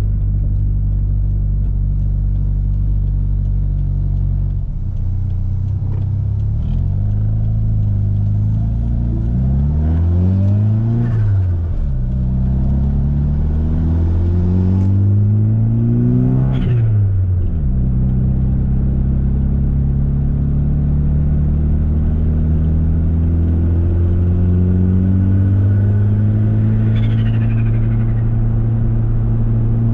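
Turbocharged Mitsubishi Eclipse GSX engine heard from inside the car. It runs steady at first, then climbs in two rising pulls that each cut off sharply at a gear change about 11 and 17 seconds in, and afterwards holds a slowly rising cruise. Short hissing releases from the blow-off valve come with the lifts around the shifts and again near the end.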